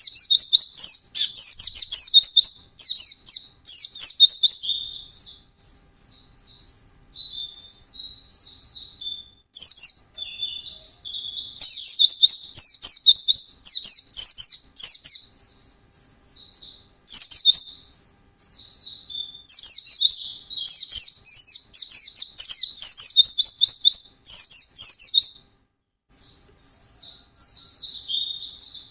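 A white-eye (pleci) singing a long, fast, high-pitched twittering song in rapid runs of notes, broken by a few short pauses.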